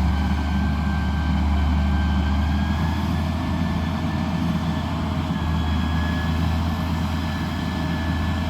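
Heavy vehicle engine running steadily with a deep rumble and a faint high whine over it.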